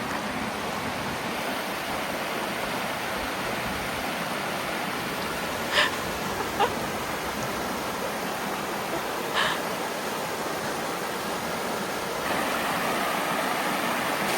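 Mountain stream rushing steadily over rocks, with a few short clicks about six seconds in and again near the middle.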